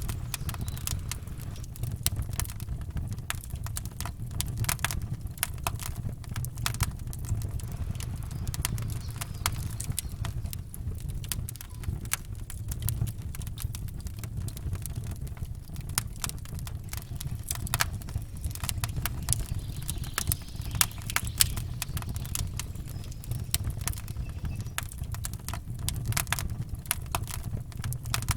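Campfire crackling, with frequent irregular sharp pops and snaps over a steady low rumble.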